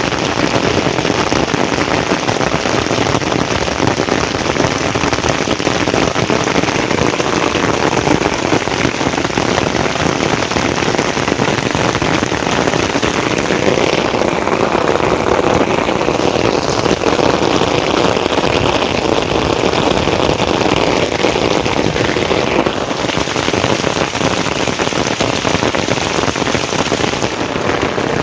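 Steady, heavy rain falling, a dense even hiss that turns a little duller for several seconds about halfway through.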